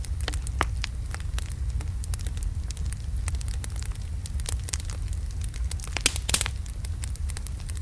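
Wood logs burning in a fireplace: a steady low rumble of the flames with irregular crackles and sharp pops, a quick cluster of pops about six seconds in.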